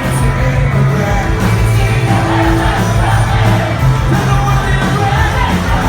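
Live rock band playing loud, distorted guitars and drums, with a shouted vocal over the music and a crowd singing and yelling along.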